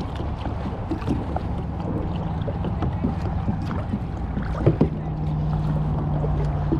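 Kayak paddling: water sloshing and splashing around the paddle and hull, with scattered small knocks.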